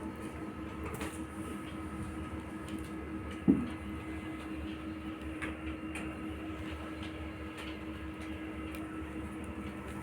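Steady low hum of room tone, with a single thump about three and a half seconds in.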